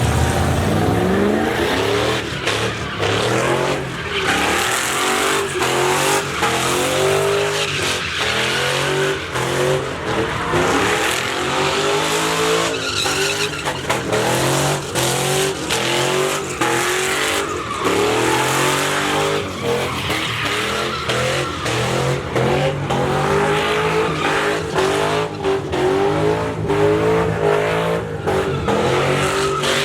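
Pickup truck doing a burnout: the engine is held at high revs that rise and fall over and over while the spinning rear tires squeal and hiss.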